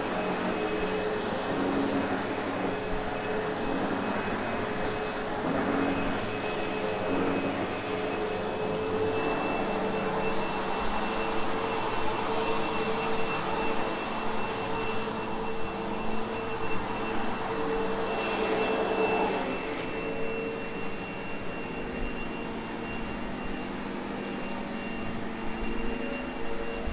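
Sebo X8 Automatic upright vacuum cleaner running steadily, with a thin high motor whine over its rushing airflow, its sound shifting slightly as it is pushed over carpet.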